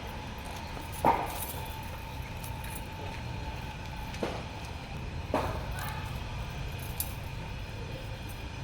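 A few short clinks or knocks, the loudest about a second in, over a steady low background hum.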